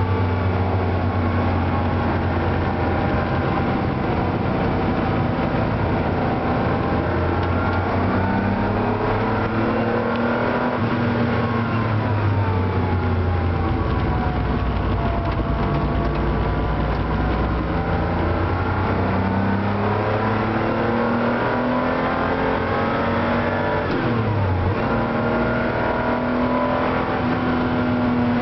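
Porsche 911 SC's air-cooled 3.0-litre flat-six, heard from inside the cabin at racing speed. It climbs in pitch under acceleration, drops back at each gear change, and falls away in one long glide about eleven seconds in.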